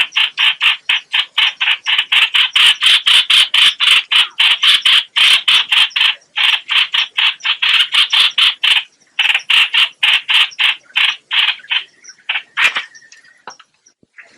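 Recorded call of the hoạch hoạch bird played as a trapping lure: a rapid run of short harsh notes, about five a second. It pauses briefly twice, then thins out and stops near the end.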